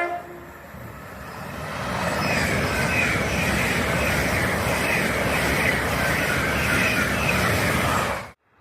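A horn note ends right at the start, then a passenger train passes at speed: a rushing roar of wheels on rail builds over about two seconds, holds steady, and cuts off abruptly near the end.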